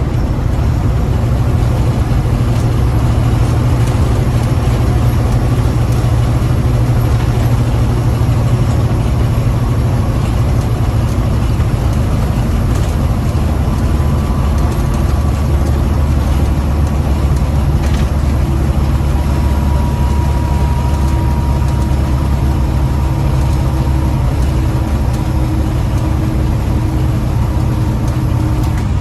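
Diesel engine of a loaded semi truck running steadily on the road, heard from inside the cab as a continuous low drone. About halfway through, the drone settles lower in pitch.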